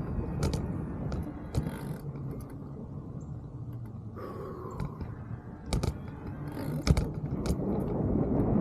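Mountain bike rolling over rough trail: a steady low tyre rumble with scattered clicks and rattles from the bike, and a couple of louder knocks over bumps near the end.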